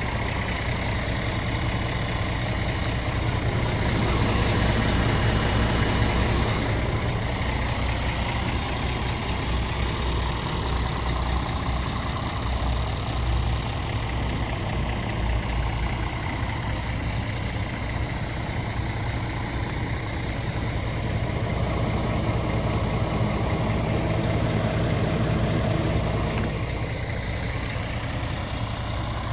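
Scania R450 truck's diesel engine idling steadily, growing a little louder for a few seconds twice.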